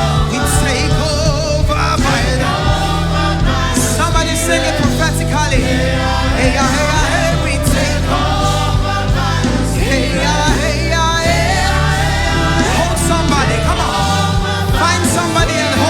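Live gospel praise music: a worship band with bass and drums backing a choir and lead singers.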